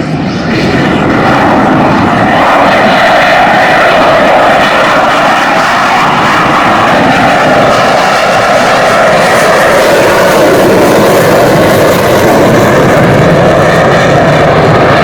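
Loud, steady jet aircraft engine noise that holds without a break.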